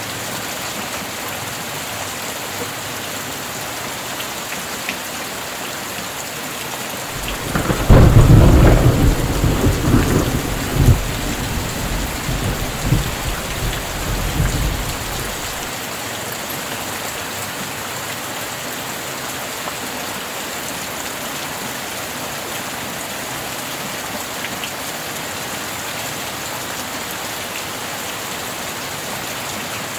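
Steady heavy rain, with a thunderclap about seven seconds in that rumbles on for several seconds, swelling again twice before dying away.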